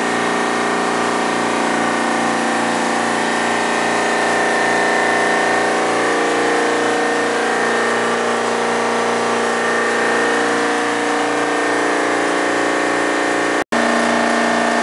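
Compressor of a circa-1983 commercial water chiller running: a loud, steady machine hum made of several steady tones over a low, even throb. The sound drops out for an instant near the end.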